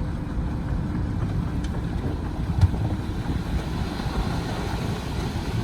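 Heavy construction machinery engines running with a steady low rumble, and a single knock about two and a half seconds in.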